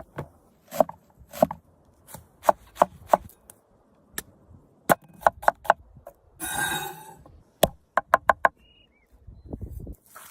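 Knife chopping on a cutting board: sharp, irregular strikes, with a short scraping rustle about six and a half seconds in.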